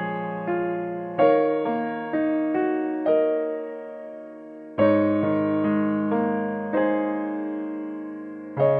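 Background music played on a piano or electric piano: gentle struck chords that ring and fade, with a short lull about four seconds in.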